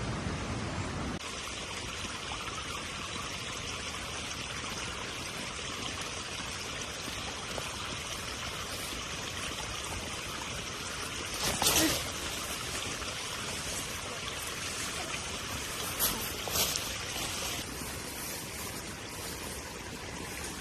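Steady hiss of running water, like a small stream trickling. A brief louder sound comes about twelve seconds in, and two more around sixteen seconds.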